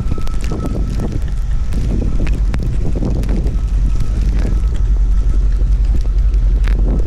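Truck running on a snowy road: a loud, steady low rumble of engine and road noise, with a faint high whine that comes and goes and scattered clicks.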